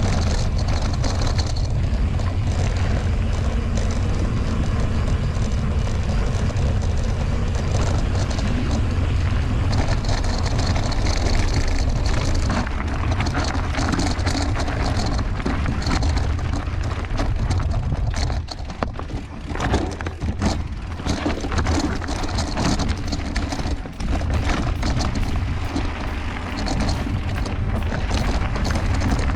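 Mountain bike on a rough dirt trail: wind rumbling across the camera microphone over tyre noise. From about halfway through, the level gets choppy and the bike clatters over bumps with many short knocks.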